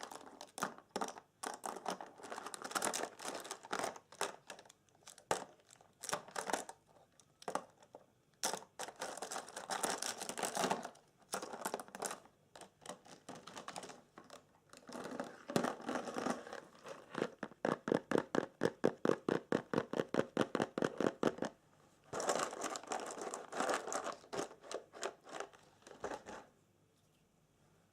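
Crinkly material crumpled and rustled close to the microphone, in irregular bursts. Midway it changes to a run of quick, even strokes, about six a second, for some four seconds, then the crinkling resumes and stops shortly before the end.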